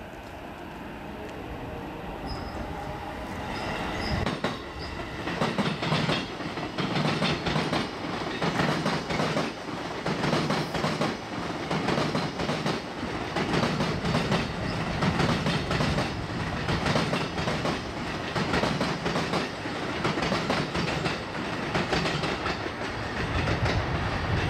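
Red-striped JR East electric commuter train passing, its wheels clacking over the rail joints in a steady repeating rhythm. The sound swells over the first few seconds as the train draws near.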